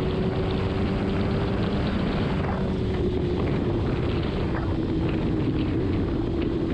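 Kawasaki Ninja ZX-6R's inline-four engine running steadily at highway speed, its note sinking slowly lower as the throttle eases, under wind rush on the microphone.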